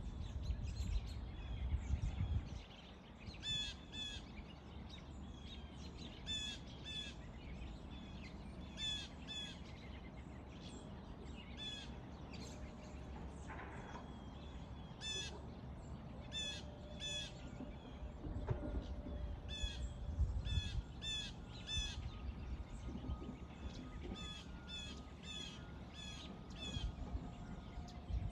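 A bird calling over and over in short clusters of two to five quick notes, with a low wind rumble that is heaviest at the start.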